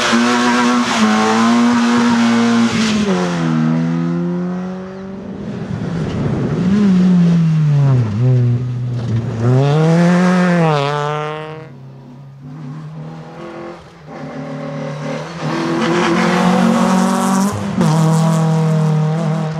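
Rally car engines being driven hard, revving up and dropping back again and again through gear changes and braking, with a quieter lull about two-thirds of the way through before the engine noise returns.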